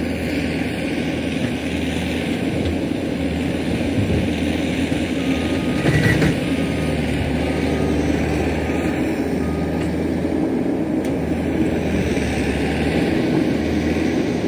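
Heavy-equipment diesel engine running steadily, with a loud clank about six seconds in. A faint short beep repeats about every two-thirds of a second from about five to ten seconds in.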